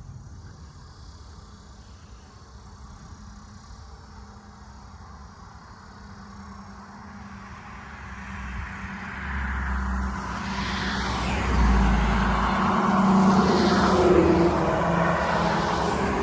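Rolling thunder from a supercell: a low rumble that swells about halfway through and stays loud to the end.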